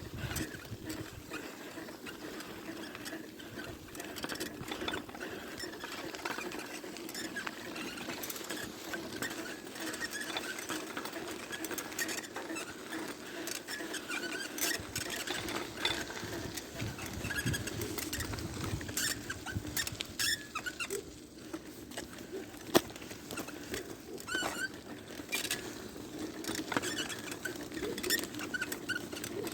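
Squeaky bicycle being ridden: short, high squeaks repeat over the rolling noise, with scattered clicks and rattles.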